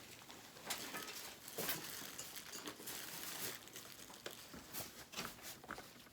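Rustling and crinkling of packaging material being handled, with scattered light clicks and knocks.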